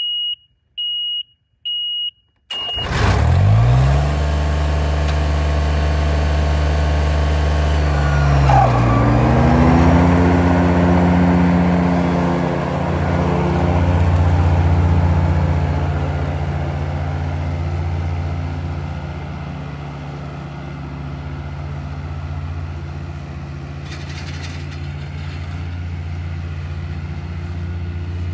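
Riding lawn mower being started: a few short, high, evenly spaced beeps, then the engine catches about two and a half seconds in and runs steadily. About nine seconds in its pitch dips briefly and climbs back.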